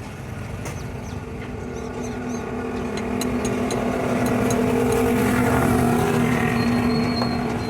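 A motor running with a steady hum, growing louder over the first few seconds and easing off slightly near the end, with a few light clicks over it.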